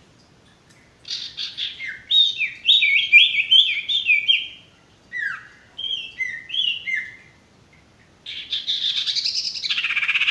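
Sirtu songbird calling: about a second in, a fast run of short, falling whistled notes, then a few more phrases, and near the end a harsh, rapid rattling chatter.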